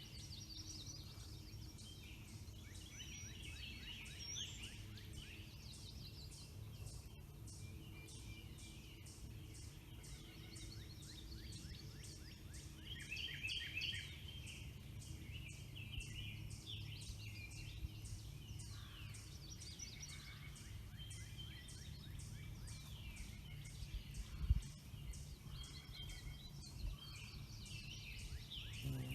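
Several wild songbirds singing outdoors, their songs overlapping, over a steady low hum. A single low thump comes about 24 seconds in.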